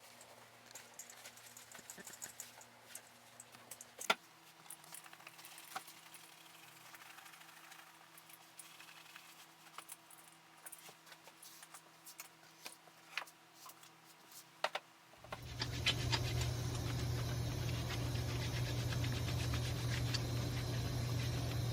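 Light clicks and clinks of tools and small objects being handled, with a sharper knock about four seconds in. About fifteen seconds in, an electric workshop machine starts up and runs with a steady hum.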